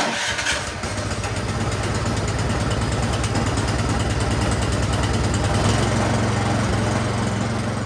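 Troy-Bilt snowblower's single-cylinder four-stroke engine starting on choke at once and running steadily, now that the carburetor jets gummed up by old gas have been cleaned.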